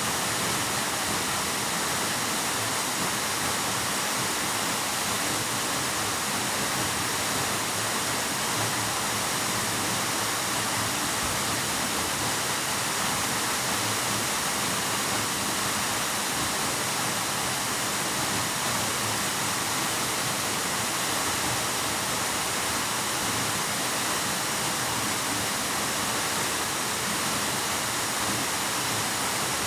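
Waterfall pouring down: a steady, even rush of falling water with no breaks or changes.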